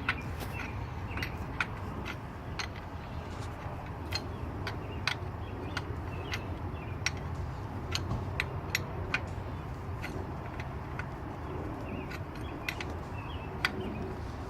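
Sharp metallic clicks of a 19 mm wrench working as a new PCV valve is threaded in and tightened, coming irregularly, one or two a second, over a steady low rumble.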